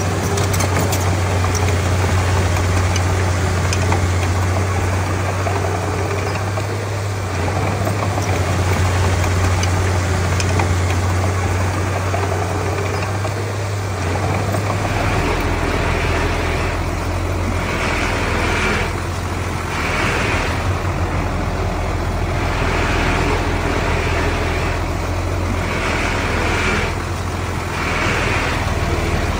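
Heavy diesel engine of earthmoving machinery running steadily under load. About halfway through its note shifts lower, and from then on a higher noise swells and fades about every two seconds.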